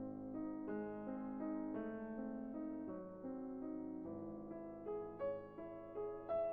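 Background piano music: a soft melody of sustained notes.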